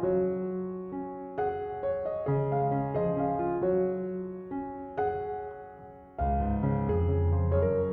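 Background piano music: soft notes struck and left to fade, with a fuller, louder passage with low bass notes coming in just after six seconds.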